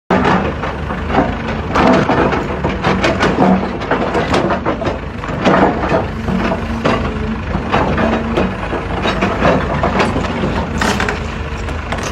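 Diesel excavator engine running steadily under many irregular heavy knocks, creaks and crunching clanks, the kind made as the machine works its steel track into place.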